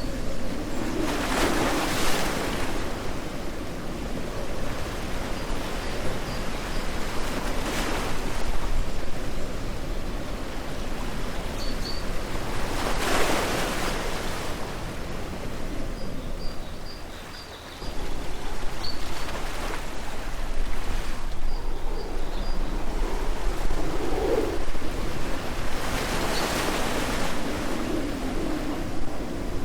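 Ocean waves breaking and washing on shore: a steady surf hiss that swells with each breaking wave, several times, with faint short high bird chirps now and then.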